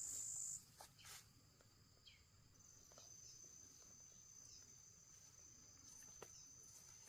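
An insect's steady high-pitched trill, like a cricket's, which cuts off just after the start. A fainter trill of the same kind starts about two and a half seconds in, with a few faint ticks over very quiet background.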